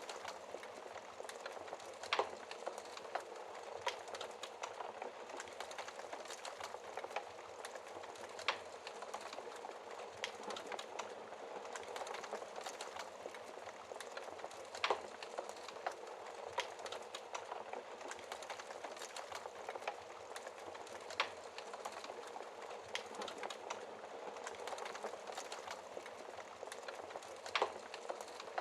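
Wood fire burning in a fireplace: a steady hiss of dense small crackles, with a louder sharp pop every few seconds.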